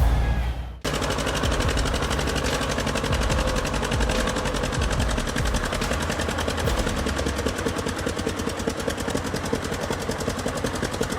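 A small tractor's diesel engine running hard with a rapid, even beat, the tractor stuck for lack of traction and engine power.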